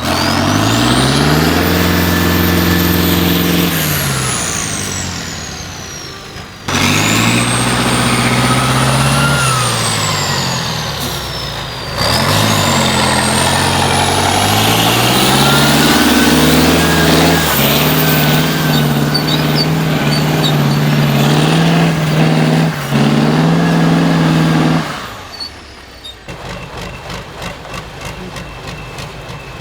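Tatra 148 truck's air-cooled V8 diesel engine working off-road, revving up and falling back again and again, with a couple of abrupt breaks. About 25 seconds in it drops to a quieter, steady run.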